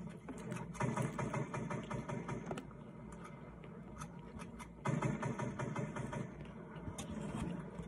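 A person chewing food close to the microphone: wet mouth clicks and smacks over a low steady hum, louder about a second in and again near five seconds.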